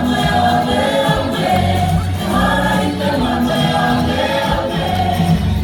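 Choir of voices singing a song together over a steady musical accompaniment.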